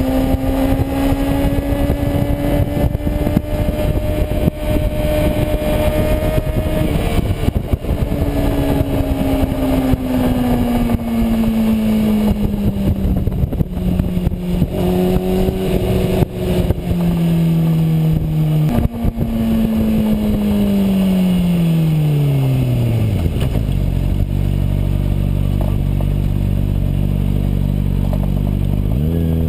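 Kawasaki Ninja ZX6R's inline-four engine heard from on board, pulling under throttle with wind noise. It then drops in pitch through several gear changes while slowing, and settles to idle about 23 s in. It starts to rev up again at the very end.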